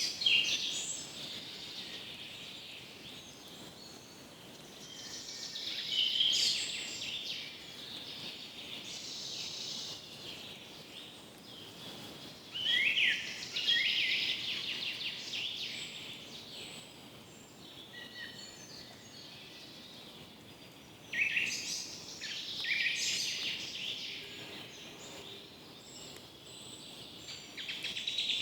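Several birds singing and chirping, in repeated bursts of high trills and chirps every few seconds, over a faint steady background of forest ambience.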